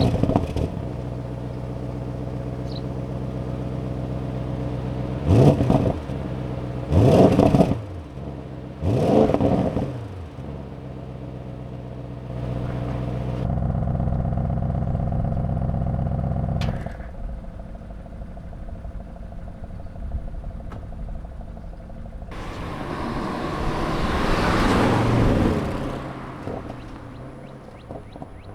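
A 2024 Audi RS6 Performance's twin-turbo V8 idling, blipped three times in quick revs about five, seven and nine seconds in. It then holds a higher idle for about three seconds before dropping back, and near the end a broader rush of sound swells and fades.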